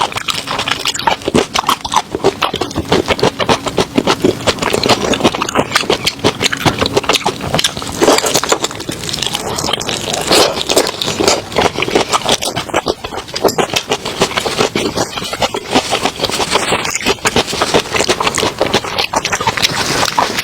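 A person eating close to the microphone: continuous wet chewing, smacking and crackling mouth sounds with dense irregular clicks throughout.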